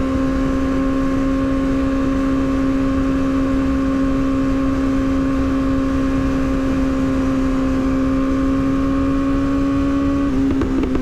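Yamaha R6 inline-four sport bike engine holding a steady high note at highway speed, its pitch creeping slightly upward, with heavy wind rumble. About ten seconds in the note breaks up and drops lower as the throttle changes.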